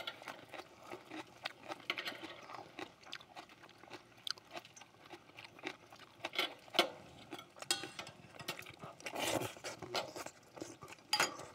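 People chewing and crunching food, with scattered short clicks of chopsticks and spoons against a cast-iron pot-lid griddle.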